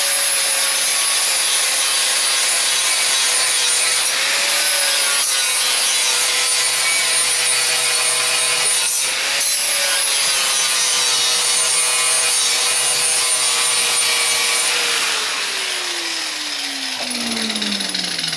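Angle grinder grinding down welds on sheet metal: a steady motor whine over a harsh grinding hiss, the pitch dipping briefly twice under load. About fifteen seconds in the grinder is let off and its whine falls away as it spins down.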